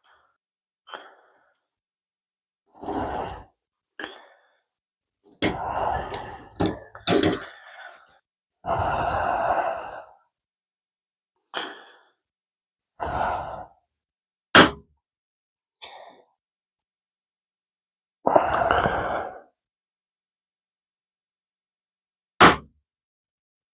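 A series of short scraping strokes, each about a second long with silence between, as layout lines are marked on a blank aluminum plate. Two sharp single clicks, one in the middle and one near the end, as the punch marks are set.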